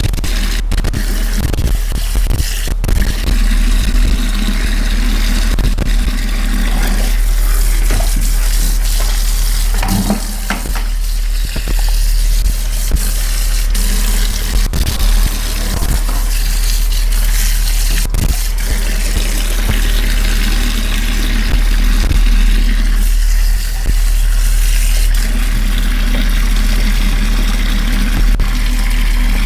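Steady hiss of a water spray washing a motorbike, with a machine hum underneath and a lower motor note that cuts in and out several times.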